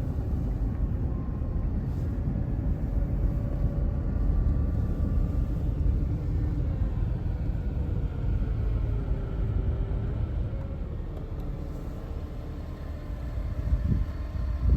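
Car driving, heard from inside the cabin: a steady low rumble of engine and tyres on the road, with a faint engine tone that drifts slowly in pitch.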